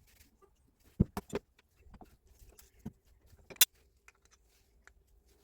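Scattered clicks and knocks of tools and parts being handled on a Hilti TE 76 rotary hammer during its rebuild. There are three quick knocks about a second in and a sharper click a little past halfway.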